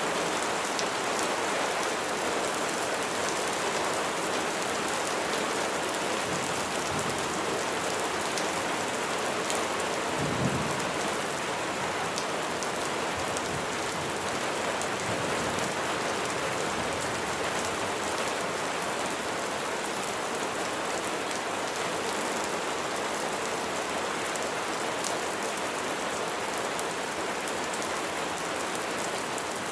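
Steady rain falling, an even hiss with scattered crisp ticks of single drops. About a third of the way in there is one brief low thump.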